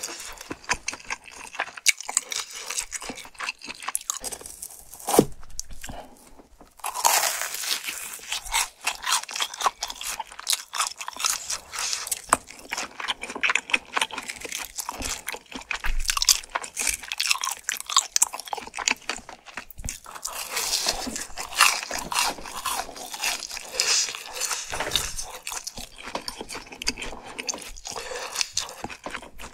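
Close-miked biting and chewing of crispy fried food, a fried cheese ball among it, with dense crunching that eases briefly about six seconds in.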